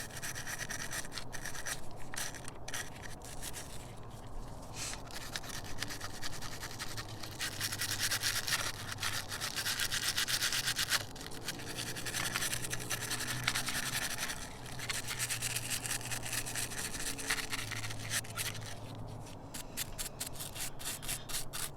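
Bristle brush scrubbing corrosion off a car battery terminal in quick back-and-forth strokes, with a longer stretch of steady, harder scrubbing in the middle.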